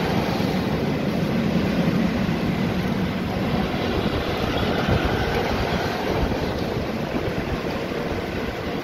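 Red-and-silver LHB passenger coaches of an Indian Railways express rolling past, a steady rumble of wheels on rail that eases slightly near the end.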